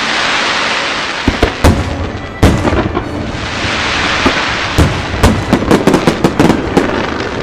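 Fireworks going off: a loud hissing crackle with separate sharp bangs, the bangs coming thicker and faster into a rapid string of reports near the end.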